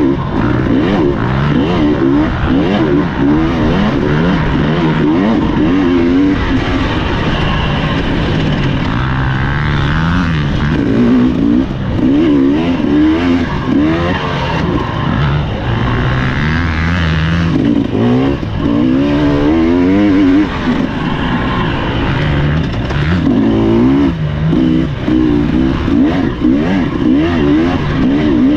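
Husqvarna TE300 two-stroke dirt bike engine ridden hard off-road, revving up and down in quick succession as the throttle is worked over rough ground.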